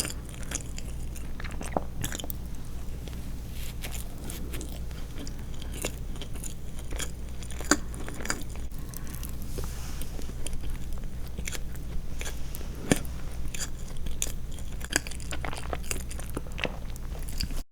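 Close-miked mouth sounds of chewing soft sweets: irregular short clicks and smacks of a mouth working, over a steady low hum. The sound cuts off suddenly near the end.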